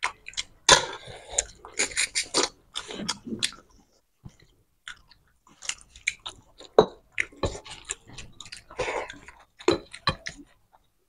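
Close-miked eating sounds of people eating mutton curry and rice by hand: irregular wet chewing and lip smacks, with a short quiet pause about four seconds in.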